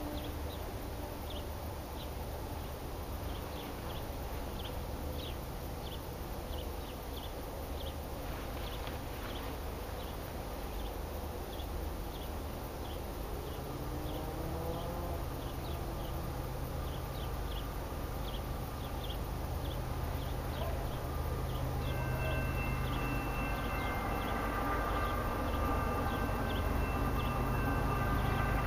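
Distant diesel-hauled freight train approaching: a low steady rumble that grows slowly louder from about halfway, with faint steady high tones joining about three quarters of the way through. Short high bird chirps repeat over it throughout.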